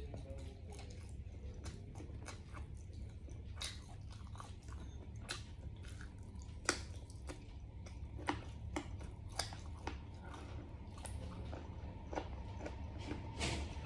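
Close-miked mukbang eating of braised pig ear, tongue and tail: biting and chewing, with irregular sharp wet clicks and crunches.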